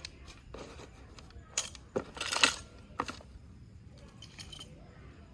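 Short clinks and knocks of wooden kitchen boards with metal rails and clips being handled and laid into a packing box, about half a dozen separate knocks, the loudest a brief rattle about two seconds in.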